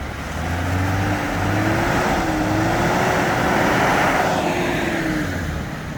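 Off-road vehicle engine running steadily under load, under a loud rushing noise; its note wavers slightly up and down.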